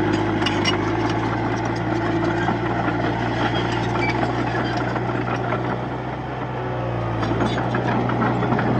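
Heavy diesel engine of a Komatsu D31P bulldozer running steadily, with scattered metallic clanks and rattles. The engine eases off a little about six seconds in and picks up again shortly after.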